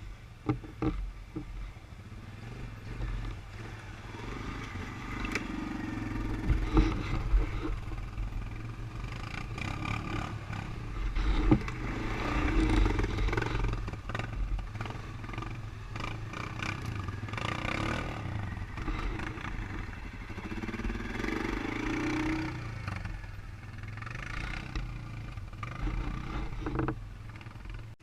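ATV engine running, its revs rising and falling several times, with knocks and rattles over rough ground.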